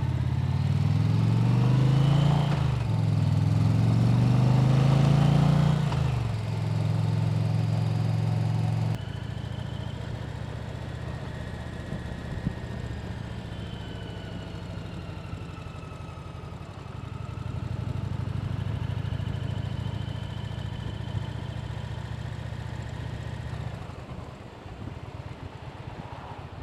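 Motorcycle engine pulling away, its pitch climbing twice with a gear change between, then cruising steadily. It is quieter from about a third of the way in and eases off near the end as the bike slows.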